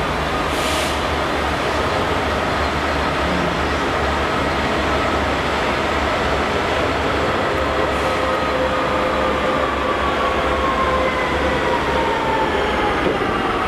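Class 66 diesel-electric freight locomotive hauling a train of wagons, its two-stroke V12 diesel engine running over a steady rumble of wheels on rail as it approaches and draws alongside. Thin whining tones fall in pitch over the last few seconds as it passes.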